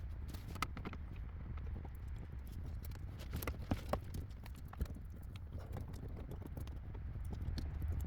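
Scattered, irregular light clicks and taps of hands handling wires and connectors under a car's dashboard, over a low steady hum.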